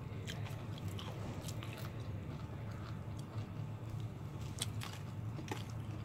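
A person chewing crispy fried chicken close to the microphone, with irregular crunching clicks, over a steady low hum.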